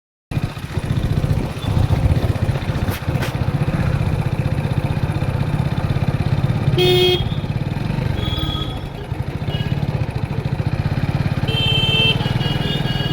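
Motorcycle riding along a road: a steady low engine and road rumble, with a vehicle horn honking briefly about seven seconds in and again near the end.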